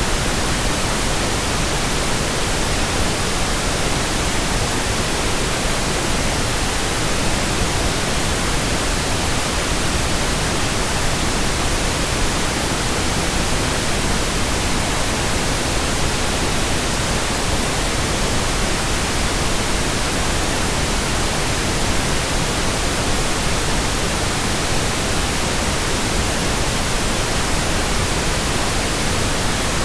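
Steady white noise: an even, unbroken hiss spread across the whole range from deep to very high, with no change in level.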